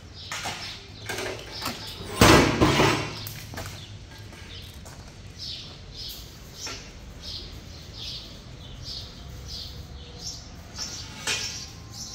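Short high chirps repeating about twice a second, like a small bird calling, through the second half. About two seconds in there is one loud rustling knock.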